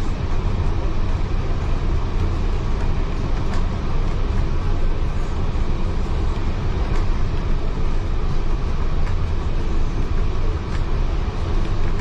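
Heritage railway passenger carriage running along the track, heard from inside: a steady low rumble of wheels on rails, with a few faint clicks.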